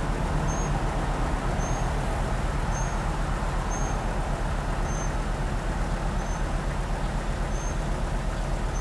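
Semi truck's diesel engine running with a steady low rumble while the truck backs up. A faint short high chirp repeats about once a second throughout.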